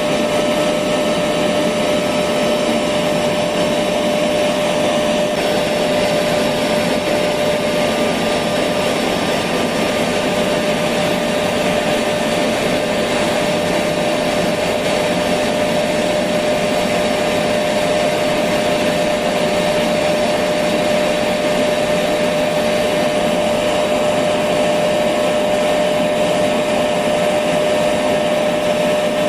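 Electric vacuum cleaner running steadily: a continuous airy rush with a steady whine from the motor, unchanging, played as white noise for lulling a baby to sleep.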